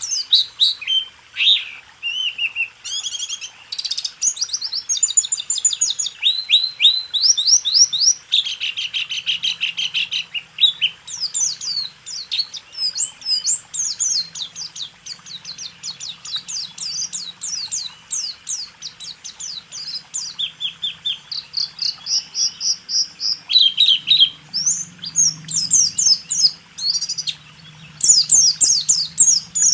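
White-eye (pleci) singing a continuous, rapid song of high chirps and fast trilled rolls, the 'rool tembak' style of pleci song.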